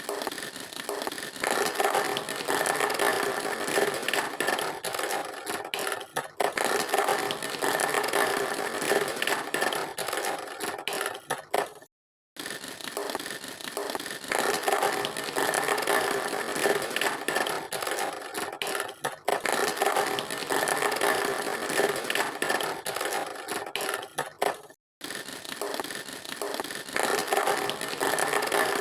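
Plastic toys rattling and scraping, with many small clicks; the sound cuts out briefly twice.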